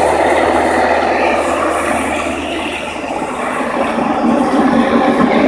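Army helicopter's rotor and turbine engine running, a steady noisy drone that eases off slightly midway and grows louder again with a deeper rumble near the end.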